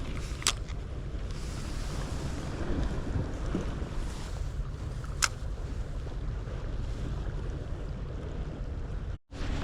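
Wind buffeting the microphone over a steady wash of sea noise at the waterside, with two short sharp clicks about five seconds apart. The sound drops out briefly near the end.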